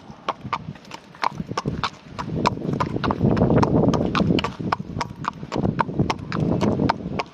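A horse's hooves clopping at a brisk walk, an even run of strikes about three a second.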